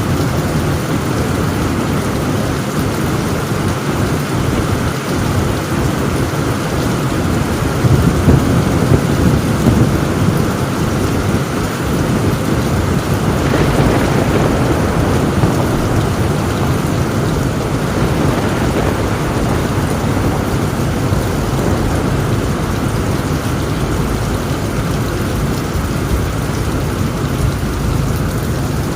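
Heavy rain falling on a tin roof as a steady wash of noise, with thunder rumbling, loudest about eight to ten seconds in and swelling again around fourteen seconds.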